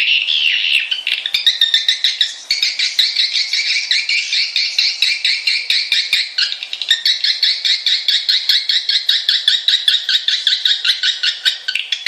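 Swiftlet calls: long trains of quick, high chirps repeated several times a second, with two brief breaks. This is a recorded walet call played as a lure to draw swiftlets in to roost and nest.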